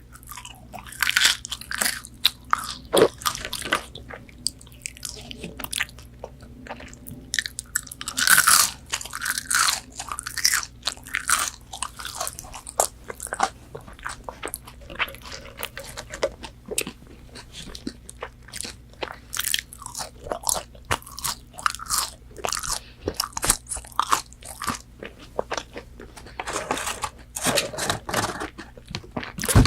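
Close-miked chewing of crispy-coated McDonald's chicken nuggets: a dense, irregular run of crunches and crackles with no talking, louder about eight seconds in.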